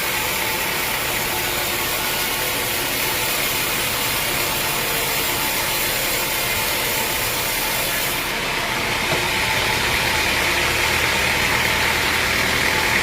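Sawmill machinery running with a steady mechanical noise; a high hiss in it drops away about eight seconds in, leaving a lower hum.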